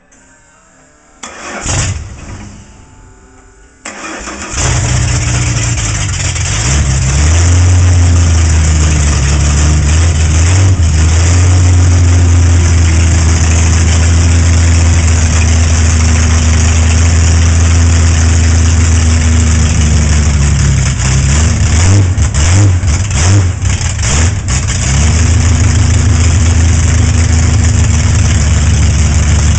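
Sling-bucket hot rod's high-compression straight-six with triple carburettors cranked and started: it catches about four seconds in and settles into a steady idle, which wavers for a few seconds past the middle before steadying again.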